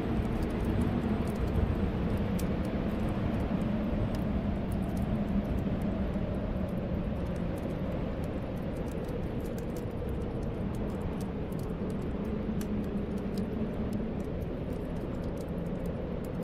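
Snowstorm wind blowing steadily, a rushing noise with a low wavering whistle, over the sparse small crackles of a wood fire in a fireplace.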